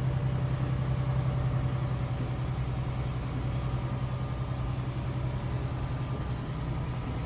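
A semi truck's diesel engine running with a steady low drone.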